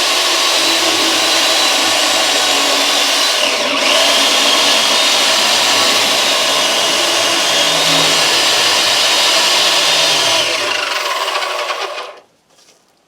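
Chainsaw running steadily with a high whine as it cuts small firewood; the motor winds down and stops about eleven to twelve seconds in.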